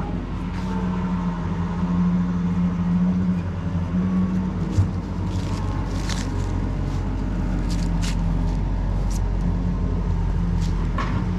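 An engine running steadily, with a few sharp clicks and knocks from about five seconds in.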